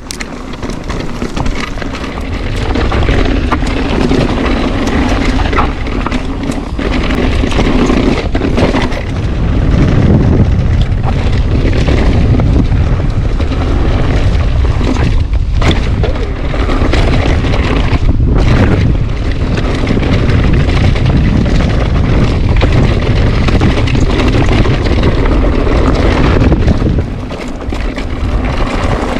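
Loud wind buffeting a mountain bike's action-camera microphone on a descent, over steady tyre noise and frequent knocks and rattles from the bike on rough ground.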